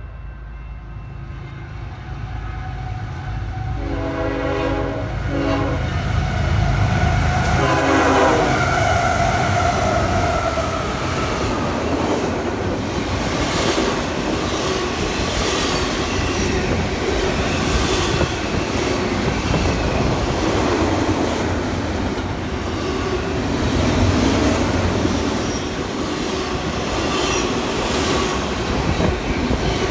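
A train approaching and passing close by. Its horn sounds a few short blasts about four to eight seconds in as the sound grows louder, then comes the steady rumble and clickety-clack of wheels over the rail joints as the cars go by.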